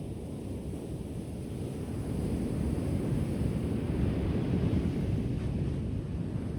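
Ocean waves washing onto a shore, a steady low wash that swells about two seconds in and eases again near the end.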